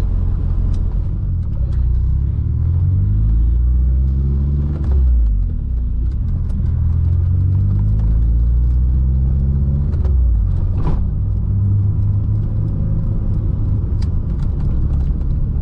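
Mk2 Volkswagen Golf GTS engine running under way, with a steady low rumble. Its pitch climbs, drops back about five seconds in, and climbs again until a short sharp sound near eleven seconds.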